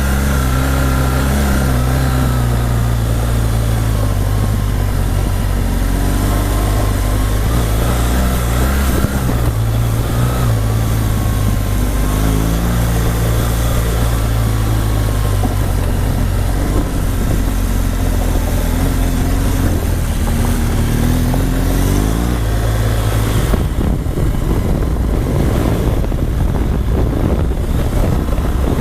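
Motorcycle engine running steadily under way, with wind rush. Near the end the steady engine tone gives way to a rougher rush of noise.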